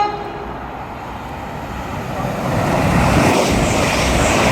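Class 185 diesel multiple unit passing through the station at high speed: a rush of wheel, rail and air noise that builds from about two seconds in and is loudest near the end. The last note of its two-tone horn cuts off at the very start.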